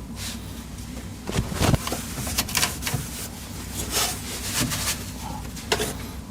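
Cleaning the inside of a desktop PC case by hand: irregular rubbing swishes and light knocks, over the steady low hum of a room air conditioner.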